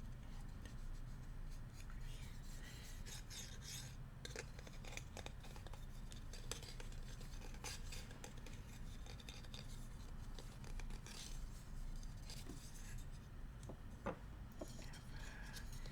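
Bamboo utensils handled close to the microphone: light tapping, scraping and rubbing, in scattered small clicks and scratchy strokes, with one sharper click near the end.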